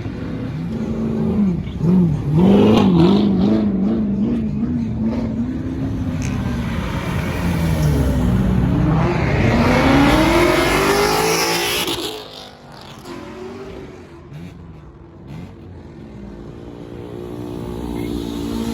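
Car engines revving in quick up-and-down blips, then a car accelerating hard away, its engine climbing in pitch before it drops off and fades about twelve seconds in. Quieter engines run on afterwards.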